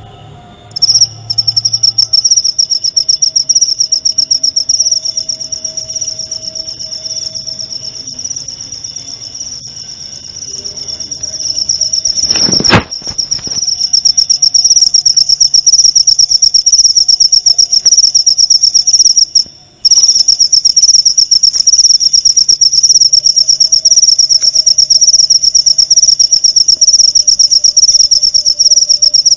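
Cricket (jangkrik) trilling continuously in a loud, high, rapidly pulsing chirr. It starts about a second in and drops out briefly about two-thirds of the way through. A single sudden loud knock sounds a little before the middle.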